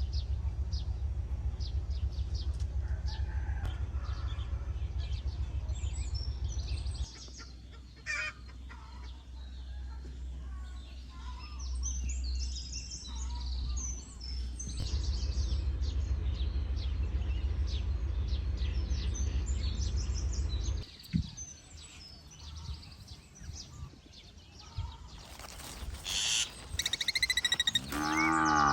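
Birds chirping and calling throughout, with a louder run of pitched, warbling calls near the end. A low, steady rumble underlies the first quarter and the middle stretch, then cuts off suddenly.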